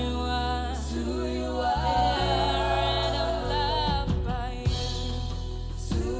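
Live gospel worship music: a voice singing long, wavering notes over sustained chords and a steady bass.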